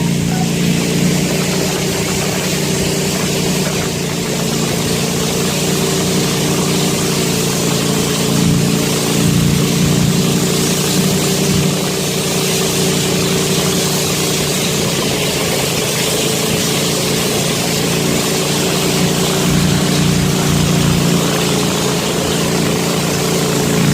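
A small fishing boat's engine running steadily while under way, with an even hiss over it.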